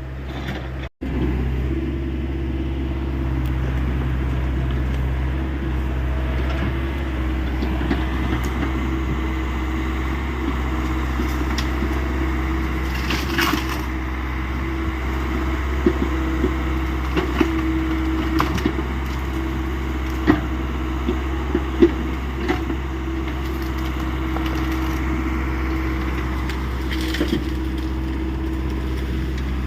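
Hyundai 85 excavator's diesel engine running steadily while it clears brush, with scattered sharp cracks of wood breaking.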